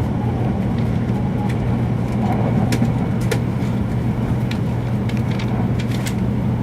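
Steady running noise inside a Shinkansen passenger car: a low rumble with a constant hum, and scattered sharp clicks and ticks through the middle.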